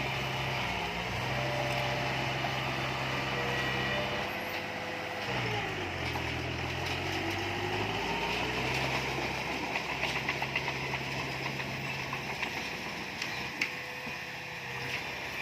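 A vehicle engine running steadily. Its pitch drops about five seconds in and climbs back up a few seconds later. A series of light clicks and ticks comes near the end.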